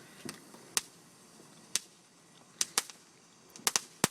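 Consumer fireworks going off: about eight sharp cracks at irregular intervals, a couple of them in quick pairs.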